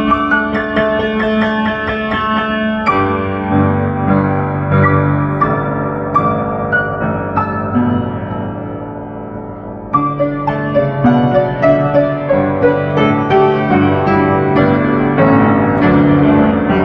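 Instrumental piano music: struck notes ringing over low sustained chords, with a new phrase coming in about three seconds in and again about ten seconds in.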